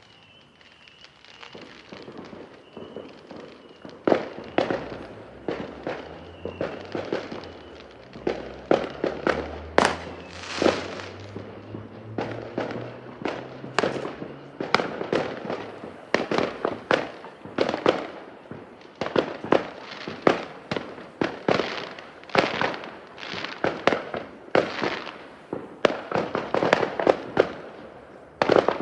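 Fireworks going off in a long run of bangs and crackling bursts, roughly one to two a second, faint at first and growing much louder about four seconds in.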